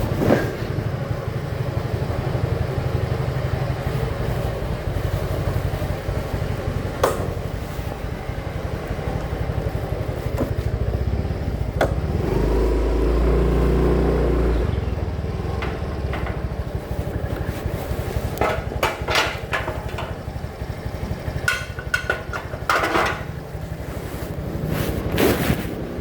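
Motorcycle engine running steadily during a ride, louder for a couple of seconds about halfway through. Sharp clicks and knocks come in a cluster in the last third.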